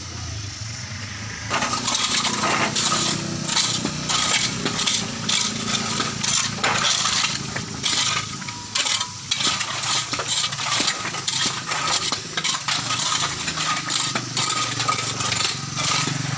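Dense clinking and scraping of metal tools on stone and gravel, starting about a second and a half in, over a low engine hum.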